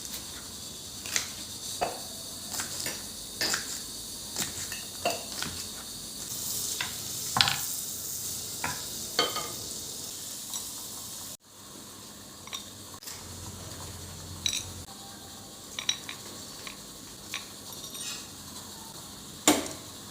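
Food sizzling in a pan, with scattered clinks and knocks of a utensil stirring against the pan. A little past halfway the sizzle drops suddenly and continues more faintly; the loudest knock comes near the end.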